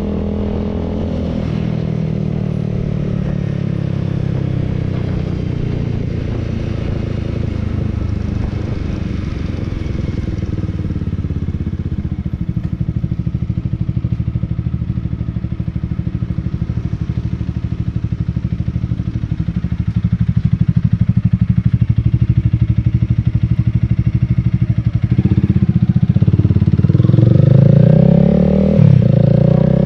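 Honda Rebel 300's single-cylinder engine running as the motorcycle is ridden. The engine note is steady for most of the time, then rises and falls several times near the end.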